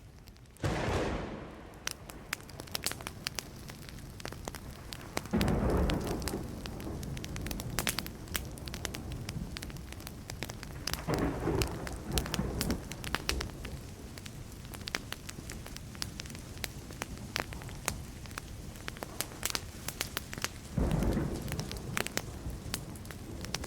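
Burning wood crackling and popping without a break, while thunder rumbles four times: near the start, about five seconds in, about eleven seconds in and near the end, each rumble coming on suddenly and dying away over a few seconds.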